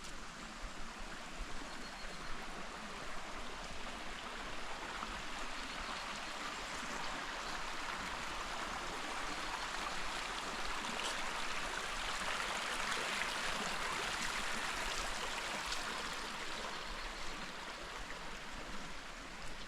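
Creek water flowing and splashing over rocks, a steady rush that grows louder through the middle and eases off again near the end.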